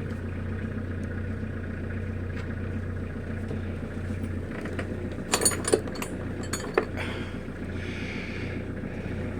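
Nanni marine diesel engine idling steadily with a low, even hum. A short cluster of sharp clicks sounds a little past halfway.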